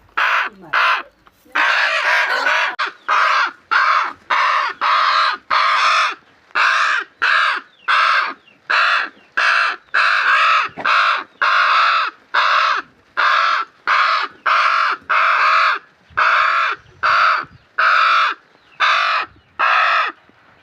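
A bird calling over and over in short, harsh calls, a little under two a second, with one longer call about two seconds in.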